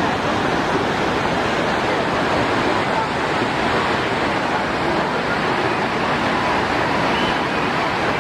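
Steady rushing of water, an even, unbroken noise.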